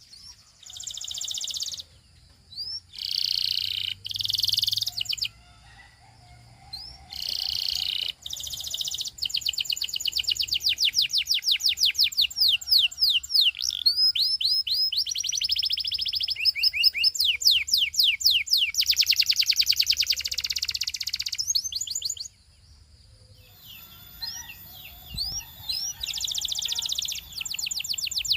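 A canary singing: short buzzy rolls in the first few seconds, then long, fast trills of rapidly repeated high notes. The song breaks off briefly about three-quarters of the way through, then the trills resume.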